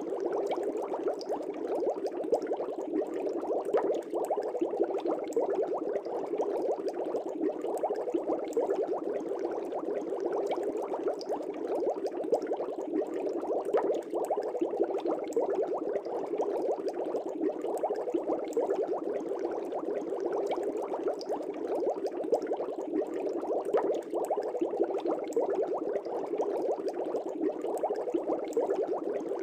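Aquarium air bubbles rising and burbling in a fish tank, a steady stream of many small, rapid pops.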